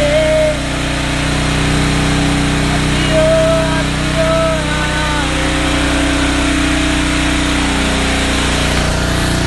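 A small engine running steadily, with its tone shifting slightly about nine seconds in. Short high-pitched gliding sounds come and go over it in the first half.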